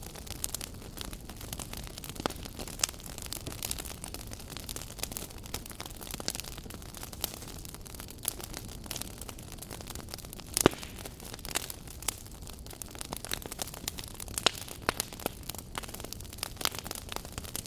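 Fire crackling in a fireplace: a steady low rush of flame with frequent sharp pops, the loudest about ten and a half seconds in.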